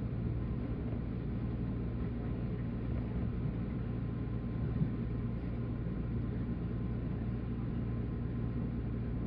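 Steady running rumble of a JR 185 series electric train, heard from inside the passenger car, with one brief knock about five seconds in.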